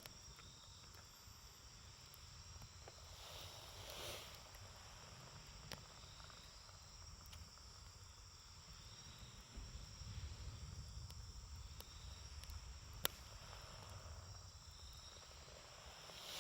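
Wood campfire burning with a few sharp crackling pops, the loudest about three-quarters of the way through, over steady chirping of crickets and a low rumble.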